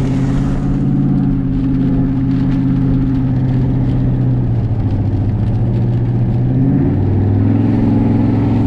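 Vehicle engine and road noise heard from inside the cabin while driving: a steady low drone whose pitch sags slowly, then shifts about seven seconds in.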